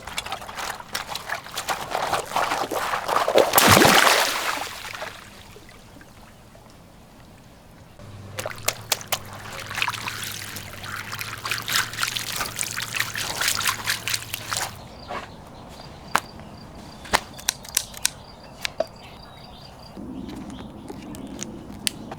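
Water pouring and splashing, loudest about four seconds in, then running again with a low steady hum for several seconds, followed by scattered sharp clicks.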